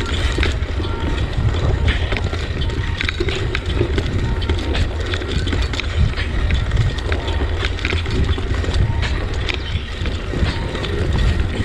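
Bicycle ride heard from the bike itself: steady wind buffeting the microphone, with frequent small clicks and rattles throughout.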